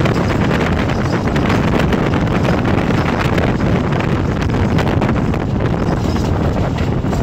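Steady rush of wind over the microphone from the open door of a moving passenger train, with the coaches' wheels rumbling on the track and faint clicks from the rails.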